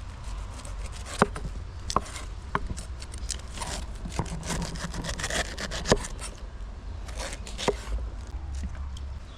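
Chopping on wood: about six sharp knocks at uneven intervals, with a stretch of scraping and rubbing in the middle.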